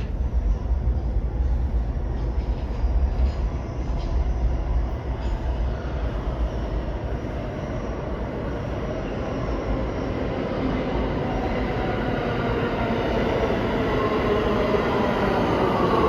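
New York City subway train running through the station: a heavy low rumble with scattered rail clicks, then an electric motor whine that grows louder over the last few seconds.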